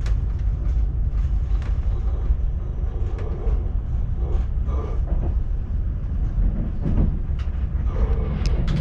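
ÖBB Railjet passenger train running along the track: a steady low rumble with scattered clicks and knocks from the wheels on the rails.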